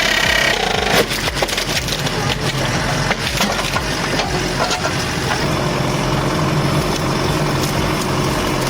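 A machine-driven wedge splitting a log: the wood cracks and splinters again and again, with a loud crack about a second in, over a steady engine running.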